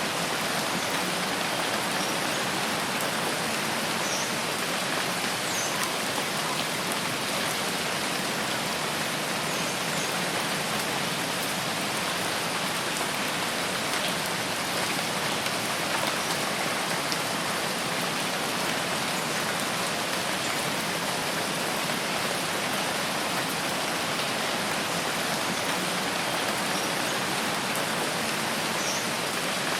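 Steady rain falling, an even unbroken hiss, with a few faint short high chirps here and there.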